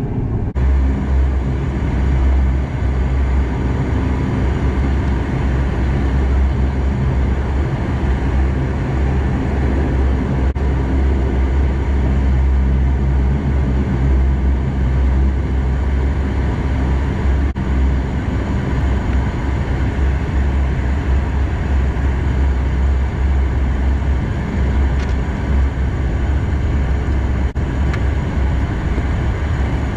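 Steady drone of a Bombardier Dash 8 Q400's Pratt & Whitney PW150A turboprop engines and propellers, heard from inside the passenger cabin. It is a deep, even hum that holds constant throughout.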